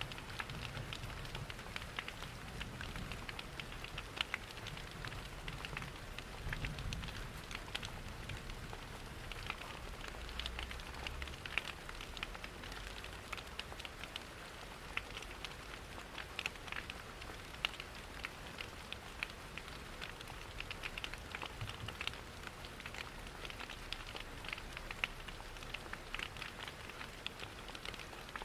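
Steady rain mixed with a wood fire crackling in a fireplace: many small sharp crackles and ticks over an even hiss, with a low rumble underneath for roughly the first ten seconds.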